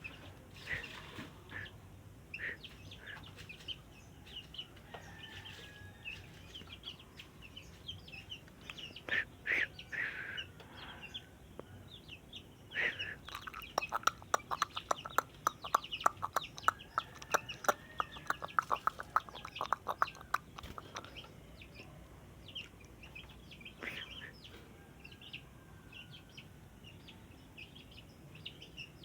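Sooty-headed bulbul giving short chirps and whistled notes, with a fast run of sharp ticks lasting about seven seconds in the middle.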